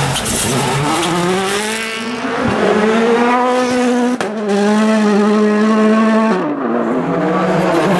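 A rally car's engine accelerating hard, its pitch climbing, with a quick gearshift about four seconds in. It keeps pulling, then drops sharply as the driver lifts off near the end.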